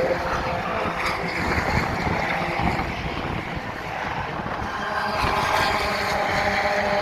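Racing car engines running on the circuit, their note strongest in the second half, with wind buffeting the microphone.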